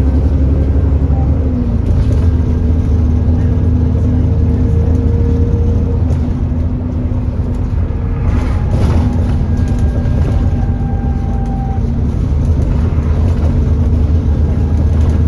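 Alexander Dennis Enviro400 E40D bus heard from on board: the diesel engine's low rumble under a loud, steady whine of the cooling fan, the 'hoover'. The whine wavers briefly about two seconds in and then holds steady. The fan is running hard, with the bus reported as overheating.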